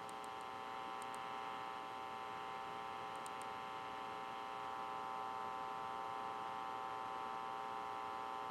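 Steady electronic hum made of several constant tones over faint hiss, from the launch webcast's audio played through a phone, with a few faint clicks about one and three seconds in.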